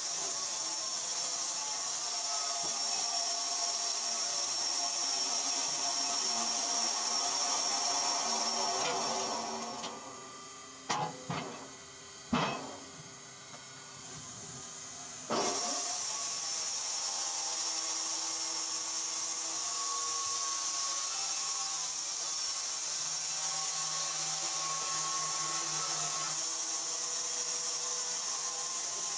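Portable band sawmill running and cutting through a log, a steady hiss of the blade in the wood. About ten seconds in it fades away and a few sharp knocks are heard, then the sawing comes back abruptly and runs steadily again.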